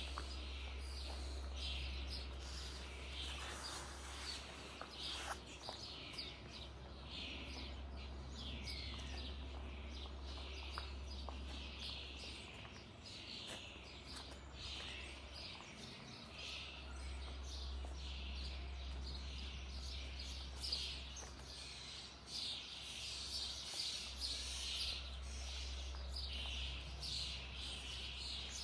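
Many small birds chirping continuously, short high falling chirps several times a second, over a low steady rumble.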